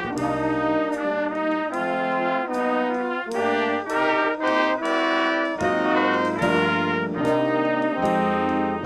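Brass instruments playing music together, a run of full chords with clear note changes every half second or so.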